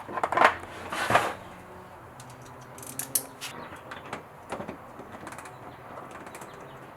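Clicks and clatter of metal hand tools: a quick cluster of knocks in the first second or so, then scattered lighter clicks.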